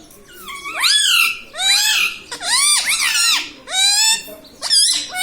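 Rose-ringed (Indian ringneck) parakeet calling: a run of about five loud, shrill squawks, roughly one a second, each bending up and then down in pitch.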